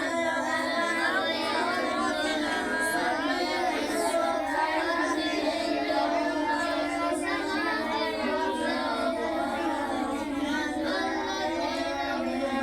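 A high, child-like voice chanting in a melodic, drawn-out style typical of Quran recitation, with long gliding notes.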